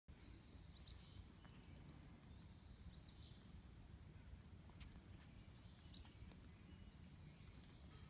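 Faint short bird chirps, one about every two seconds, over a low steady rumble.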